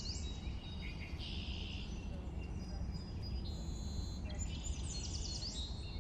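Several small birds chirping and singing, with quick falling whistles and short trills, over a steady low background rumble.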